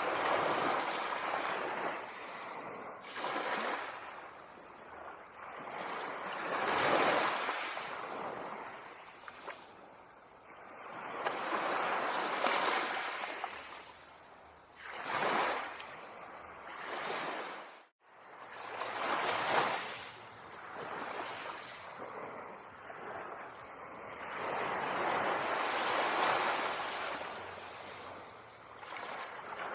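Ocean waves breaking on a sandy beach, the surf surging and falling away every few seconds. About two-thirds of the way through, the sound cuts out for a split second and then returns.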